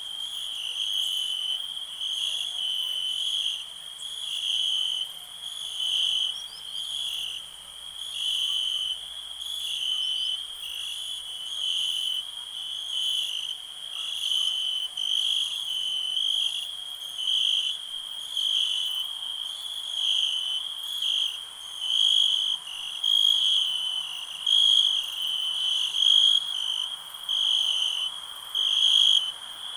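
Crickets chirping steadily: a high, continuous trill that swells and fades about once a second.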